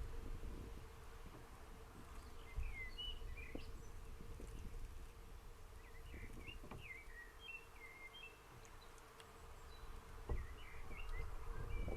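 Small birds chirping in short, scattered twittering phrases over a steady low hum and a low outdoor rumble, with a few soft taps.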